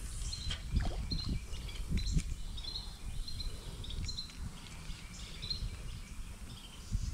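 Songbirds chirping over and over in short, high calls, over a low steady rumble.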